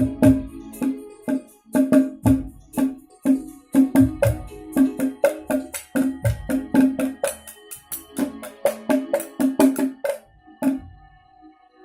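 A percussion instrument played in quick, irregular strikes, each with a short pitched ring. The playing thins out and stops about ten and a half seconds in, leaving a faint held tone.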